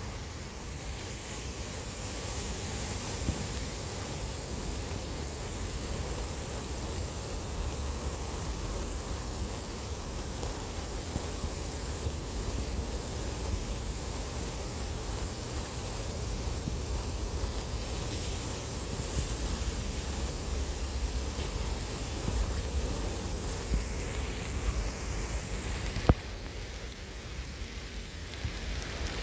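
Steady rain falling, a continuous hiss with a low rumble underneath. A sharp click about 26 seconds in, after which it is a little quieter.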